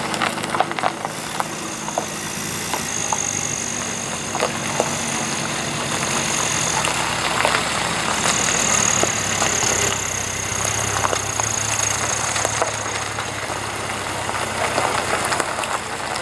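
Car engine running steadily at idle, with scattered light clicks and knocks over it.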